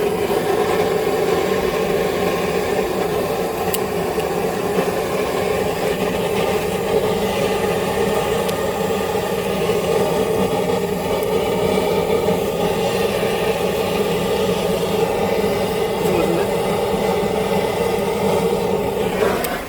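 A small motor running steadily with a droning whir, which cuts off abruptly near the end.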